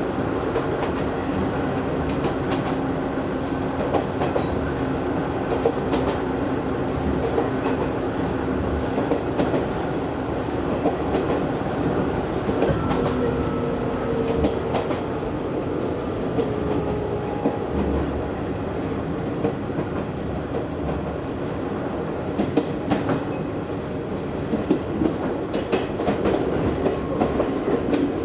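Running noise inside an Izu Hakone Railway Series 3000 resistance-control electric train car moving between stations: a steady rumble of wheels on the track with scattered rail-joint clicks, and faint whining tones that drift slowly in pitch.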